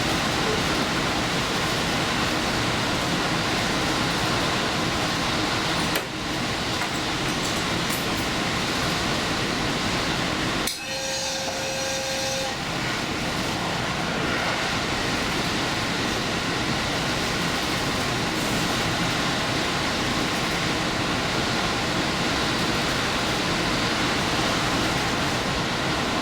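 Limited express train running at speed, a steady rush and rumble of wheels on rail heard from the front of the train. About eleven seconds in, a short tone of several pitches sounds for under two seconds.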